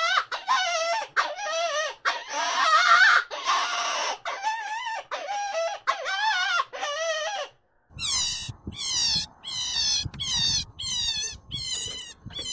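Rabbit squealing: a run of high, wavering squeals about three a second, then after a short break about halfway through, quicker short squeaks that each fall in pitch, about two a second.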